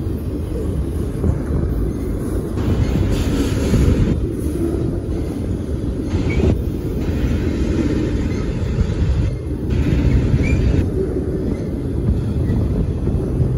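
Autorack car-carrier freight cars of a BNSF train rolling past: a steady rumble of wheels on rail, with stretches of higher hiss that come and go every couple of seconds.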